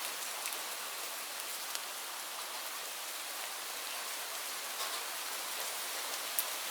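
Steady rainfall: an even hiss of rain with scattered sharper drops striking close by.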